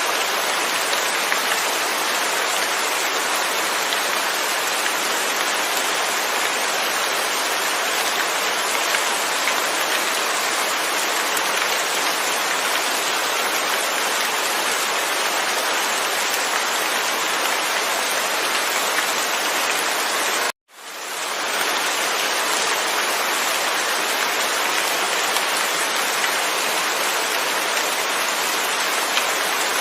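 Steady rain falling, with no thunder. About two-thirds of the way through, the sound cuts out suddenly to silence for a moment and then fades back in.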